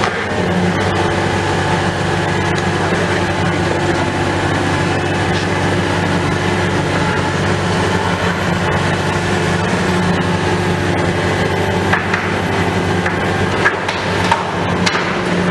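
Heavy demolition machinery running steadily with a low engine drone, with a few sharp knocks near the end.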